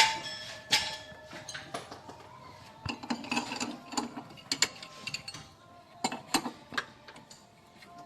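Irregular metallic clicks and short runs of clicking from hand tools, typical of a wrench working the bolts of a car's engine mount.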